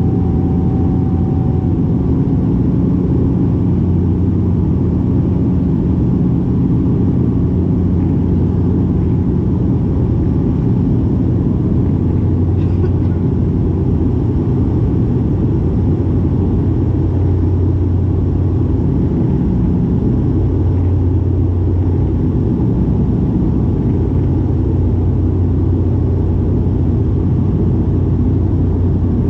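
Cabin noise of a De Havilland Canada Dash 8-400: the steady low drone of its Pratt & Whitney PW150A turboprop engines and propellers, heard from inside the cabin at a window seat.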